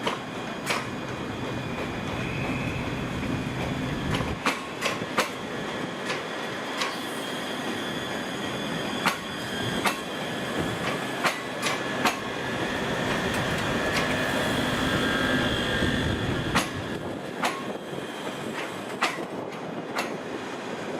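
A train moving slowly through the station over points, a steady rumble broken by irregular sharp clicks and knocks as the wheels cross rail joints, with thin wheel squeal. The rumble grows louder through the middle and drops away about three-quarters of the way through.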